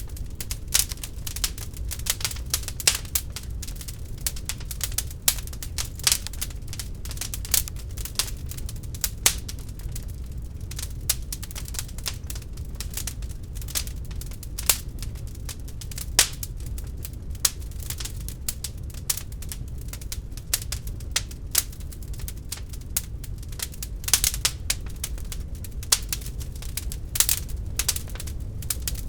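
Wood fire burning in a fireplace, crackling and popping irregularly over a low steady rumble of the flames, with a cluster of louder pops about five seconds before the end.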